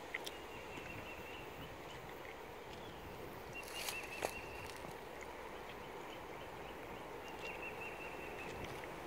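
Quiet outdoor ambience with a songbird's short, flat, high trill heard three times, about a second each, and a single sharp click around the middle.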